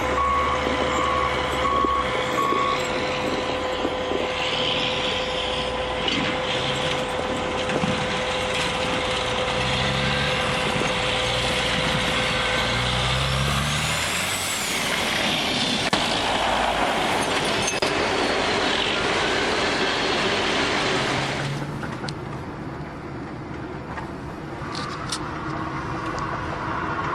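Heavy trucks on the road: engine noise mixed with tyre and road noise. The sound changes abruptly about 21 seconds in, where one clip gives way to another.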